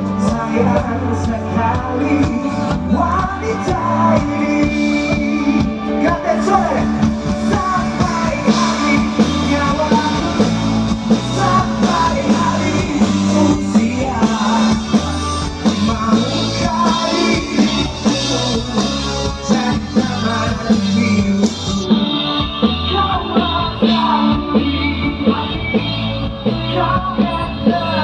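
An Indonesian pop-rock song: a singer's voice over a band with guitar and a steady bass beat.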